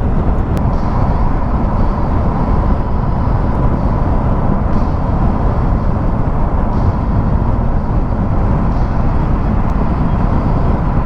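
Motorcycle riding at a steady cruising speed, with the engine and wind rush running loud and even.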